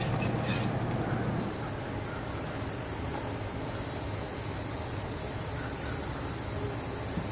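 Steady, high-pitched insect chorus that sets in about a second and a half in, over a low steady hum.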